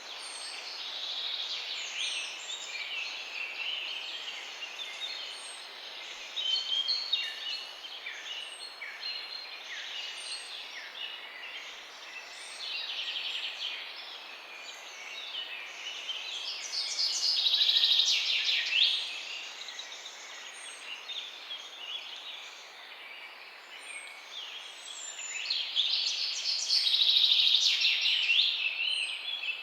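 Morning chorus of several songbirds chirping and trilling over a steady background hiss. Twice the birdsong swells into dense, rapid trilling, about midway and again near the end, and a faint high note repeats every second or so throughout.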